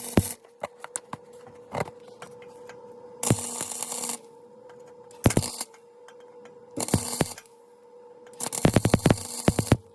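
Several short bursts of welding crackle on an exhaust pipe, each about half a second to a second long, with a faint steady hum between them.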